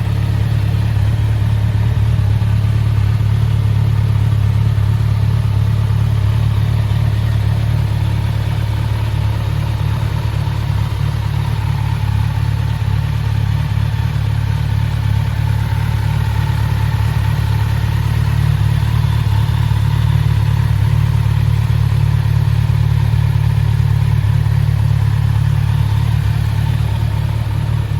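Kawasaki Z900 SE's inline-four engine idling steadily through an Akrapovič aftermarket silencer.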